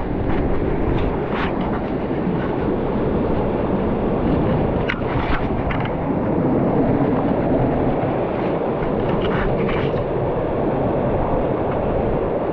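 Steady roar of rushing water from a waterfall, with a few light clicks or knocks at about one and a half seconds, five seconds and nine to ten seconds in.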